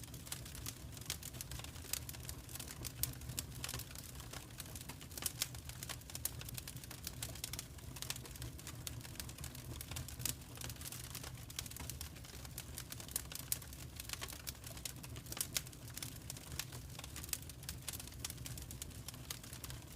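Wood fire crackling in a fireplace: a dense, irregular run of sharp snaps and pops over a steady low rumble.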